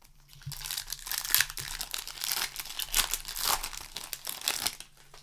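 A Magic: The Gathering set booster pack's foil wrapper being torn open and handled: a run of crinkling, tearing rustles that stops shortly before the end.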